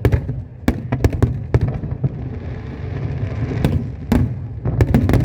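Fireworks display: aerial shells bursting in rapid, irregular bangs and crackles, with a steady low rumble between them.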